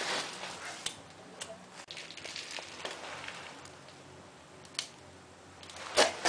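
Firewood being loaded into a steel stove's firebox: scattered wooden and metal knocks and clicks with some rustling, and a louder knock near the end.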